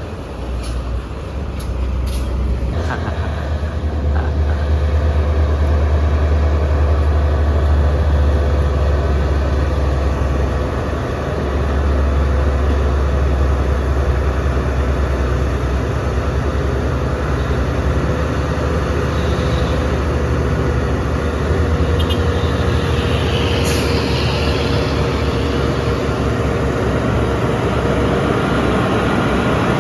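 Heavy diesel truck engine labouring up a steep grade under full load, a loud steady low drone that eases briefly about eleven seconds in and picks up again. A short hiss comes about two-thirds of the way through.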